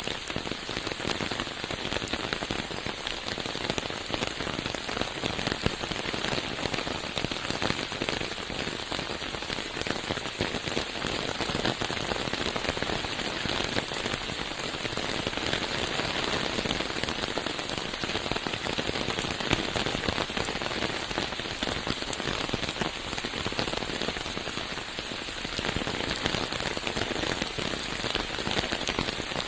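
Steady rain falling on forest foliage and ground, a dense patter of countless drops.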